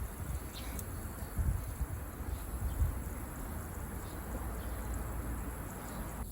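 Wood campfire burning: a steady hiss over a low rumble, with a few faint crackles.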